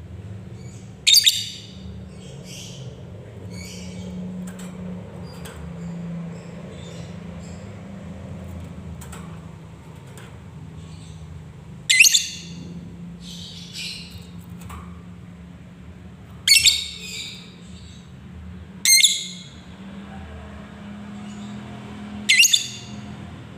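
Lovebird calling: five loud, short, shrill shrieks spaced several seconds apart, with softer chirps between them, over a steady low hum.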